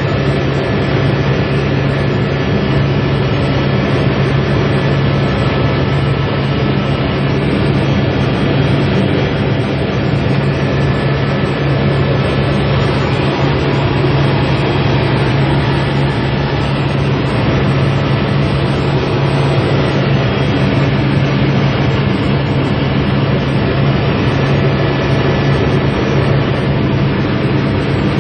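Helicopter in flight: steady, loud rotor and engine noise with a strong low hum that does not change.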